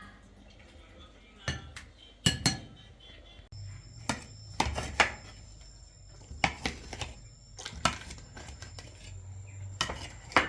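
Pots, dishes and utensils knocking and clinking against each other in irregular clatters, several close together. From about a third of the way in, a thin steady high tone and a low hum sound underneath.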